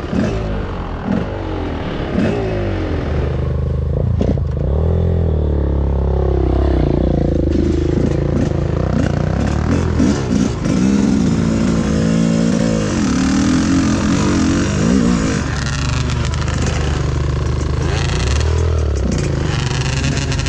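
Enduro motorcycle engine revving up and down again and again as it is ridden over rough ground, with scattered clattering knocks.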